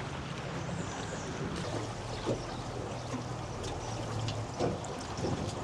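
Steady rush of a high, fast-flowing river current, with a low steady hum underneath and a few faint clicks.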